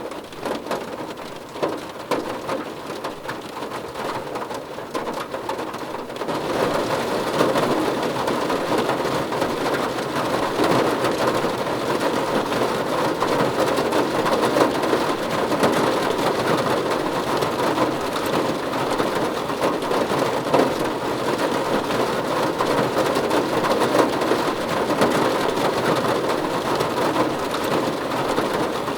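Rain falling on a car roof, a steady rush thick with separate drop hits, growing heavier about six seconds in.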